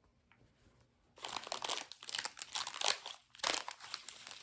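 Plastic packaging being handled and crinkled by hand, a dense irregular crackle that starts about a second in and keeps going.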